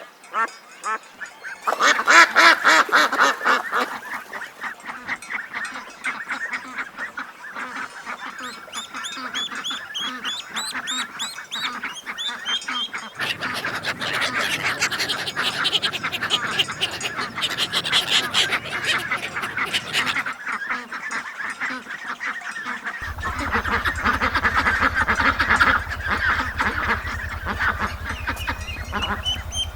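A flock of ducks quacking, with many rapid, overlapping calls. The calls come in several spliced recordings, with a cut about two seconds in and others further on.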